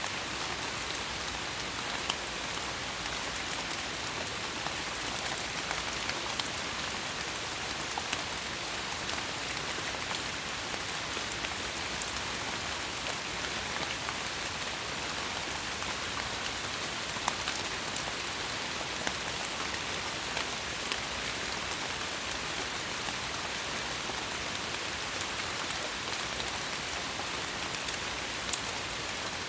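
Steady rain falling in forest foliage: an even hiss sprinkled with sharp ticks of drops striking leaves, one louder drop near the end.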